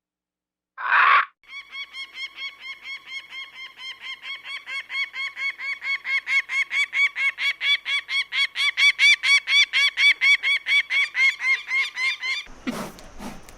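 A bird giving a long, fast series of short nasal honking calls, about four a second, getting louder toward the middle. The series cuts off abruptly near the end, where a different, rougher sound takes over.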